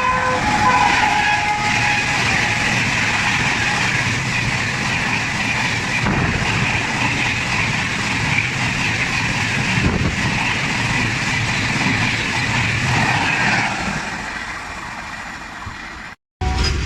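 An electric-locomotive-hauled train running through a station at speed: a steady rush of wheels on the rails with a low rumble, just after the horn's last note dies away. The sound fades over the last few seconds and then cuts off abruptly.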